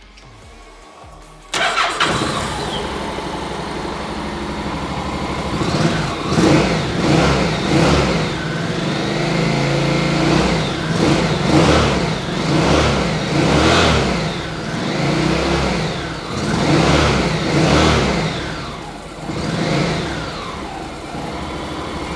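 2012 Honda NC700 Integra's 670 cc parallel-twin engine starting on the button about one and a half seconds in and idling. It is then revved in a series of rising and falling blips for about fifteen seconds before dropping back to idle.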